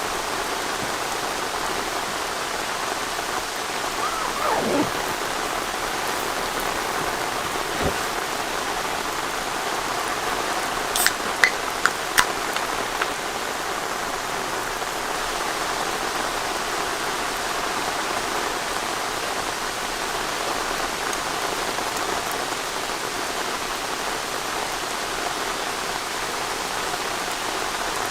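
Steady rain falling, an even hiss of drops. A brief falling sound comes about four seconds in, and three or four sharp ticks come about eleven to twelve seconds in.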